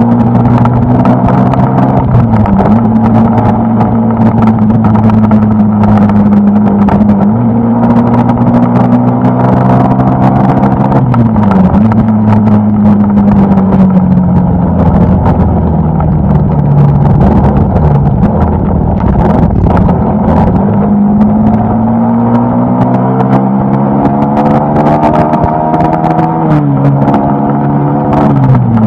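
Suzuki Gixxer SF 250's 249 cc single-cylinder engine running on the move. Its pitch dips sharply a few times, then climbs steadily for several seconds and drops again near the end, over crackling wind noise.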